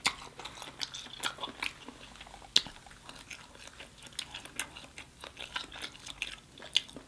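Close-miked chewing with many irregular, sharp, wet mouth clicks and smacks.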